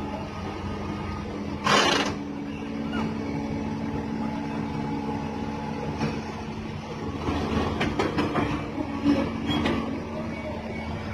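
Crane's heavy diesel engine running steadily at a low, even pitch, with a short loud hiss of released air about two seconds in and a few light knocks later on.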